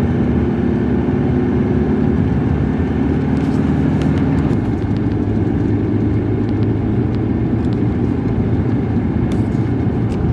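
A car driving along the road: steady engine and road noise, with the engine note changing about halfway through.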